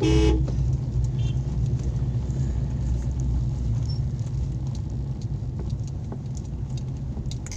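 Steady low rumble of a car driving, heard from inside the vehicle. A short pitched tone sounds once at the very start.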